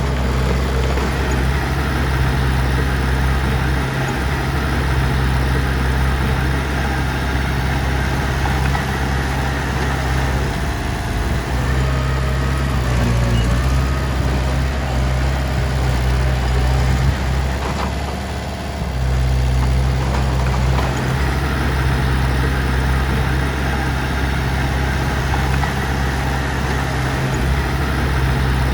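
Heavy-machinery diesel engine running steadily, with a brief dip in loudness about two-thirds of the way through.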